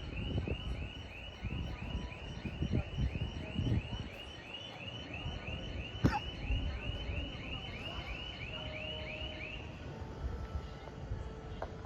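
A high chirping tone repeating steadily, about three chirps a second, which stops a couple of seconds before the end. Under it runs an uneven low rumble, and a single sharp click comes about halfway through.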